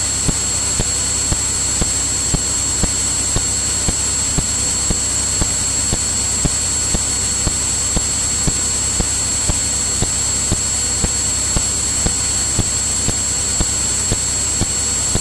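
Steady engine and propeller drone of a Cirrus single-engine piston aircraft in cruise, heard inside the cabin through the recording feed, with a thin steady high whine and faint regular ticks about twice a second.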